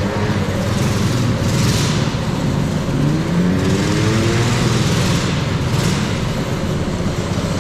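A vehicle driving, with steady road and wind noise. Partway through, the engine note rises as it accelerates.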